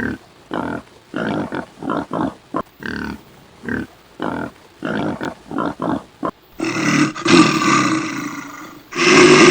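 Bear sounds: a quick series of short grunts, then two long, loud roars.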